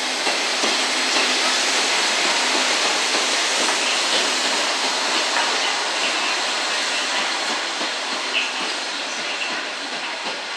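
Slow-moving train of an EF65 electric locomotive and a towed, unpowered D51 steam locomotive rolling past: a steady rolling noise of wheels on rail with scattered clicks, and a low steady hum in the first few seconds. It fades a little toward the end as the train moves away.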